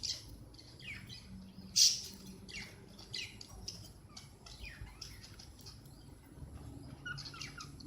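Cockatiels giving many short, falling chirps, one after another, with one much louder burst about two seconds in.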